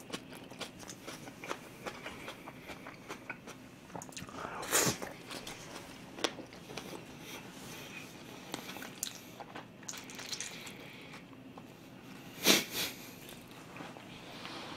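A person chewing a mouthful of food: many small mouth clicks, with two louder sudden sounds about five and twelve seconds in.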